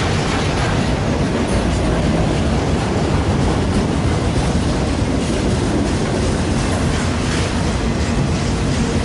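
A freight train's cars rolling steadily past, wheels clacking over the rail joints under a continuous loud rumble of wheels on rail.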